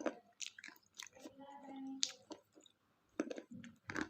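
Close-miked chewing and crunching of a KitKat chocolate wafer bar, irregular crisp crackles with short pauses between bites.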